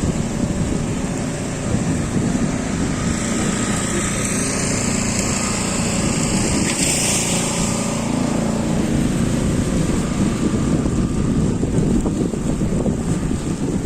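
Steady city street noise of traffic, with wind buffeting the microphone. About midway there is a brief brighter swell of high-pitched hiss.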